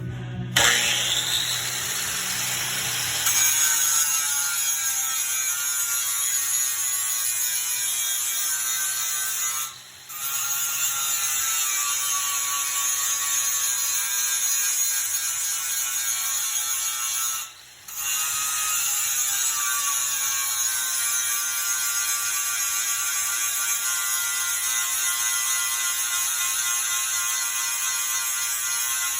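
Power grinder spinning up with a quick rising whine, then running steadily at a high pitch while grinding steel; the sound cuts out briefly twice.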